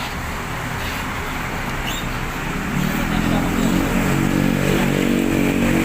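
A bus engine running, its steady pitched drone coming in and growing louder about three seconds in, over general terminal traffic noise.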